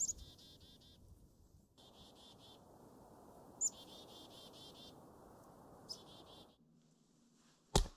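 A small songbird calling in several short bursts, each a sharp high note followed by a quick run of buzzy notes, over a steady hiss. A single sharp knock comes near the end.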